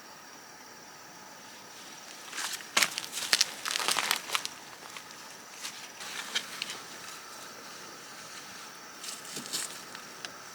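Crinkling, crackling handling noises in a dense cluster a couple of seconds in, then scattered clicks, over a faint steady high-pitched drone.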